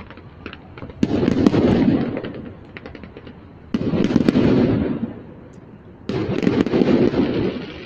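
Distant aerial fireworks: three booms, about a second in, near four seconds and about six seconds in, each starting sharply and rolling away over a second or so. Faint crackling pops fall between them.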